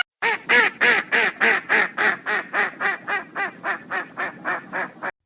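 A bird calling in a fast run of about twenty short calls, roughly four a second, growing fainter toward the end.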